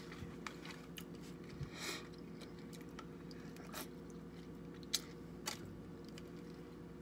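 Close mouth sounds of someone eating king crab legs: chewing and wet smacking, with a few sharp clicks scattered through, the sharpest about five seconds in.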